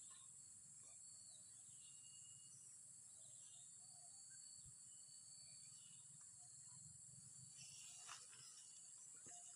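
Faint rural ambience: a steady, high-pitched insect drone with a few scattered faint bird chirps.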